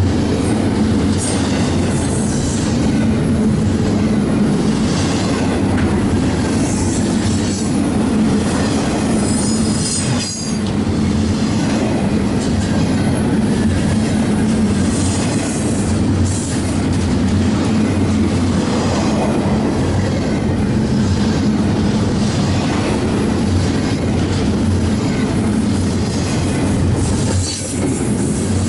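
Cars of a BNSF intermodal freight train rolling past: a steady, loud rumble of steel wheels on rail with wheel squeal and clatter. The noise dips briefly three times.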